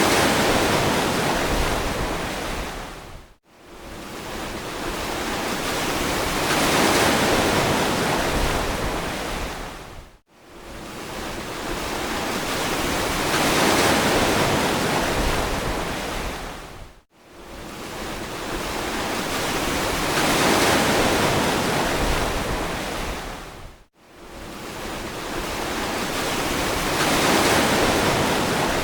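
Ocean surf: waves wash in and ebb in an even cycle of about seven seconds, each one swelling to a peak and fading away, with a sudden brief drop almost to silence between waves.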